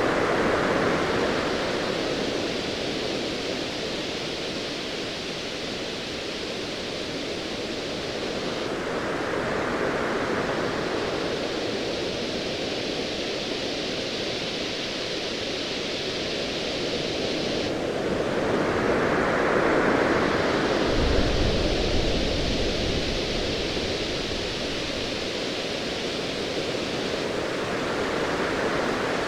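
Ocean waves surging in slow swells about every ten seconds over a steady hiss of surf, with a brief low rumble of distant thunder about twenty-one seconds in.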